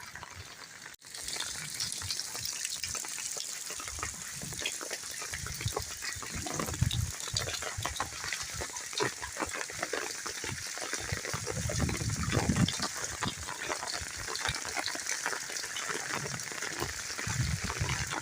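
Rain falling: a steady dense patter of drops with rushing water, and low rumbles now and then. The sound changes abruptly about a second in.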